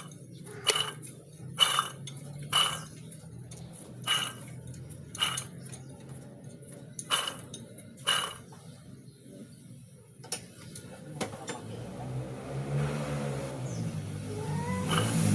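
Car engine running with a steady low hum, which the title puts down to a noisy water pump. Sharp metallic clinks sound over it about once a second for the first eight seconds or so.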